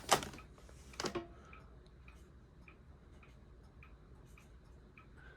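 A mechanical clock ticking about twice a second over the faint, steady low hum of an SMC A52 ceiling fan running on high speed.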